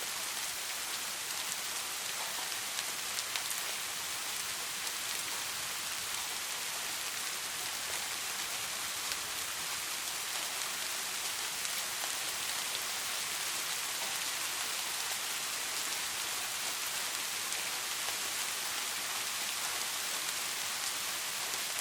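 Steady rain falling: an even, unbroken hiss with a few faint scattered ticks of drops.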